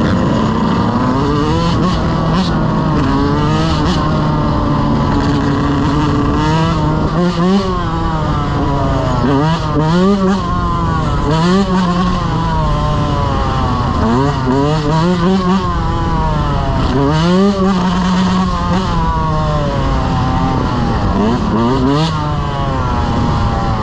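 Dirt bike engines running loud and revving, pitch rising and falling again and again every couple of seconds as the throttle is worked.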